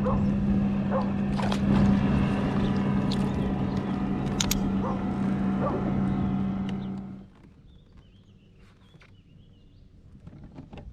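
A boat motor running steadily with a low hum, stopping abruptly about seven seconds in; after that only faint sounds remain.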